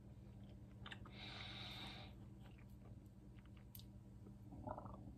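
Faint chewing of a mouthful of soft ensaymada bread, with a soft hiss about a second in, over a steady low hum.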